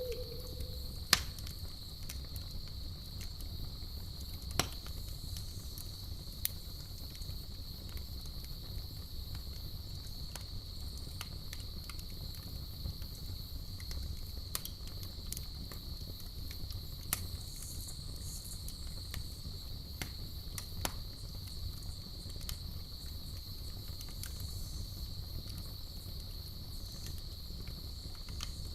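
Campfire crackling, with a low steady rumble and a few sharp pops scattered through, the loudest about a second in. Behind it, a steady high insect trill runs on without a break.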